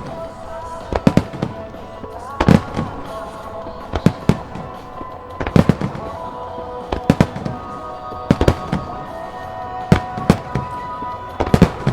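Fireworks shells bursting in sharp bangs, often in quick pairs, about every second and a half. A rock song with vocals plays under them from the show's loudspeakers.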